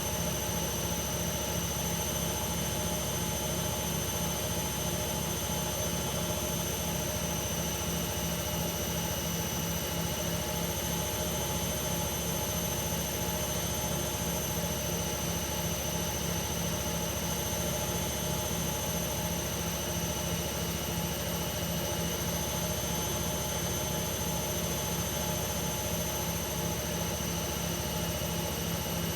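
Hoover Ecologic Computer Washer 1300 washing machine spinning at a steady high speed: the drum and motor make a constant whir with a high-pitched whine.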